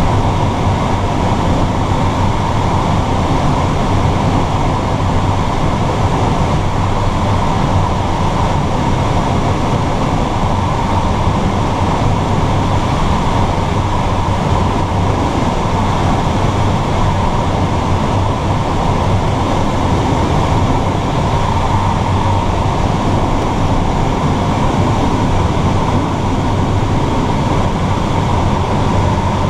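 Steady rush of airflow over a glider's canopy and fuselage, heard inside the cockpit, loud and unchanging throughout.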